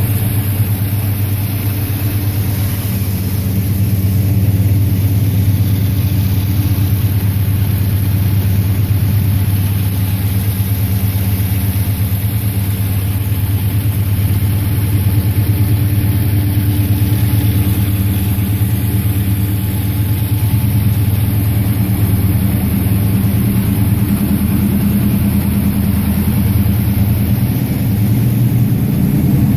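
Chevrolet 400 cubic inch small-block V8 with a four-barrel Holley carburetor idling steadily after a cold start.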